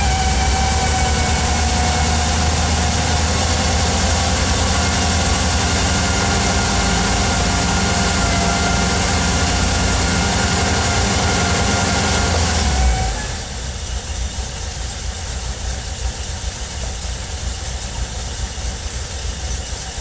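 Volkswagen Vanagon 2.1 water-cooled flat-four engine running with the throttle advanced, with a high-pitched hum from behind the instrument cluster. About 13 seconds in the throttle is let off: the sound drops, the hum goes away, and the engine settles to idle.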